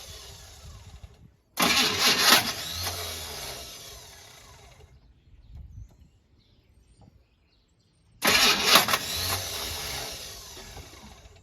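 Chevrolet El Camino's starter cranking the engine in two attempts of about three seconds each, with a pause between; the engine does not catch, as the car won't start.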